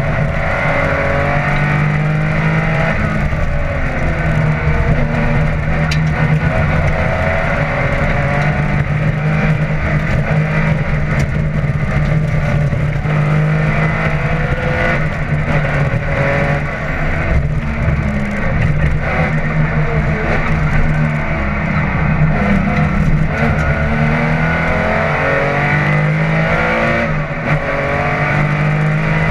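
Porsche 911 SC's air-cooled flat-six engine heard from inside the cabin, running hard with the revs climbing and dropping again and again through the gear changes.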